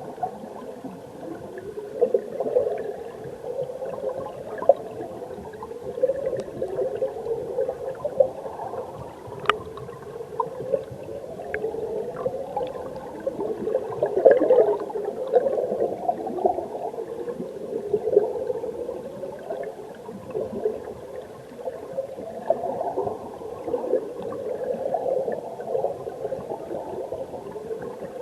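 Valley stream recorded from underwater: a muffled, continuous gurgling and bubbling of flowing water, with a few faint sharp clicks scattered through it.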